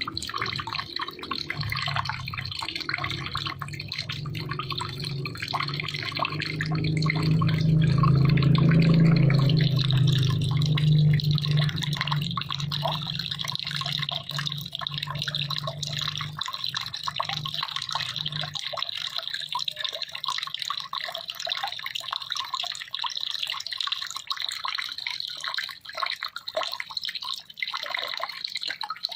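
Water trickling and dripping, a steady splashing with many small drops. A low rumble underneath swells about eight seconds in and cuts off suddenly about eighteen seconds in.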